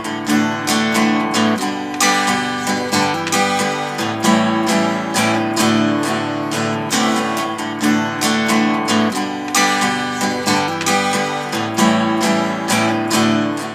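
Background music: strummed acoustic guitar playing a steady rhythm of chords.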